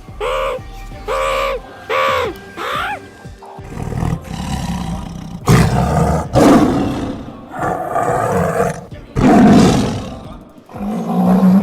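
Tiger roaring several times in long, rough bursts over background music, after a quick run of five short pitched calls at the start.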